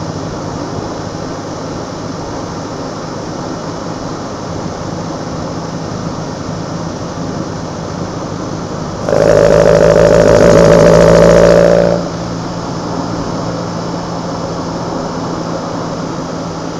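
Kadett GS 16v engine breathing through side-draft Solex C40 ADDHE carburetors, running steadily. About nine seconds in the throttle opens and the intake noise gets much louder for about three seconds, then drops back to the steady level.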